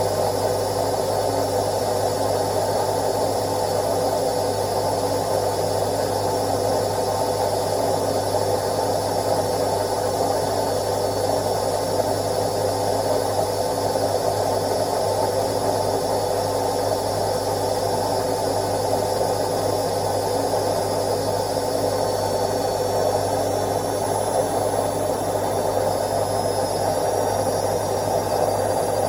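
Indesit IWC71252 washing machine running steadily on its daily quick wash programme: an even motor hum and whir with a thin high-pitched whine that edges up slightly near the end.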